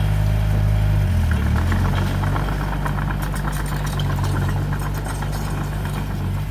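Heavy-equipment diesel engine running steadily; about a second in its note shifts. A fast clicking clatter runs over it for a few seconds.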